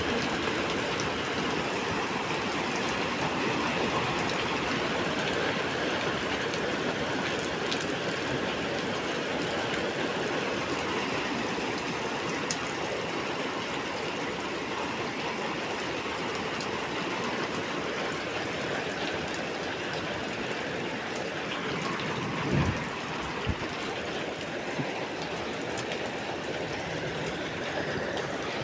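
Heavy rain pouring steadily: a dense, even hiss with scattered ticks of drops. A brief low thump about three-quarters of the way through.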